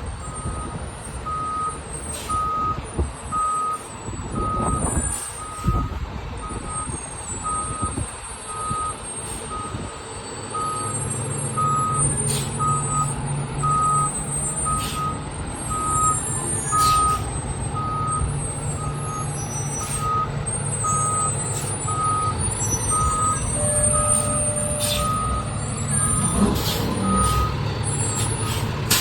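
Fire truck backing up, its reverse alarm beeping steadily about one and a half times a second over its diesel engine running, which grows louder about eleven seconds in.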